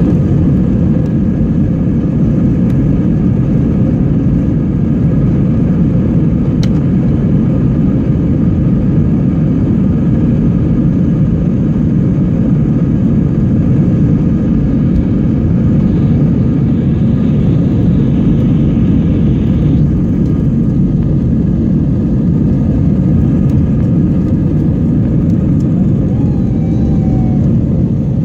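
Steady, loud jet engine and airflow noise heard inside the cabin of an Airbus A319 airliner.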